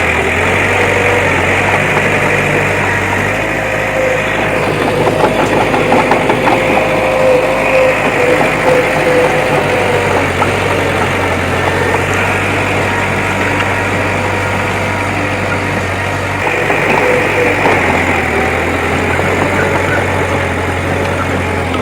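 Diesel engine of heavy earthmoving machinery running steadily, its low note shifting a few times as the load changes.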